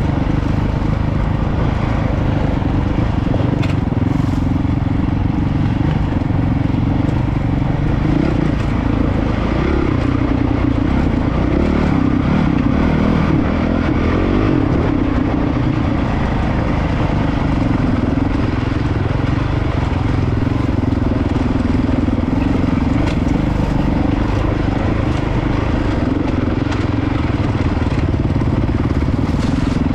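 Honda CRF450RL dual-sport motorcycle's single-cylinder four-stroke engine running while ridden down a rocky trail, its revs rising and falling constantly with the throttle, with a few faint clicks over it.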